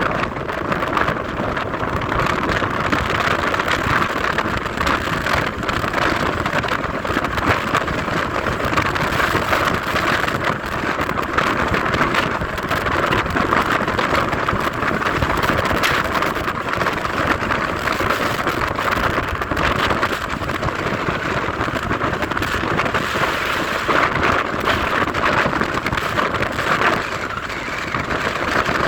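Steady road and wind noise from a car being driven.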